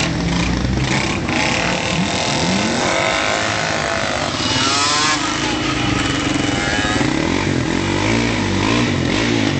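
Several motorbike engines running together, one engine's pitch sweeping up and down about halfway through and again near the end as it revs or goes by.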